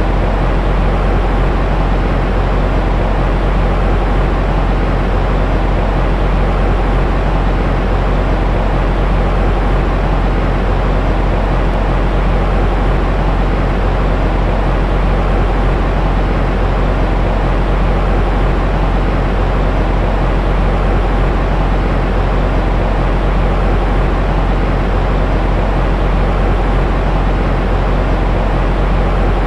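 Steady white noise for soothing a baby: an even, unchanging hiss with a strong deep rumble and little treble.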